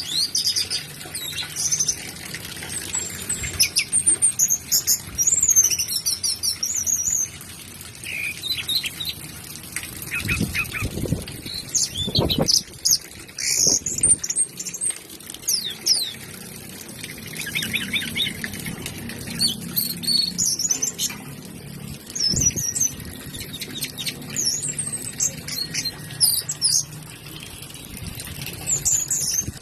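An anis (ground thrush) singing a long, varied song of quick high whistles, trills and chirps in separate phrases. A few dull low thumps come in the middle.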